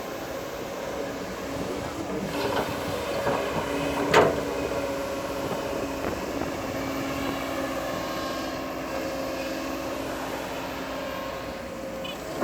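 Crawler bulldozer's diesel engine running steadily, with metallic clanks from its tracks. One sharp clank about four seconds in is the loudest sound.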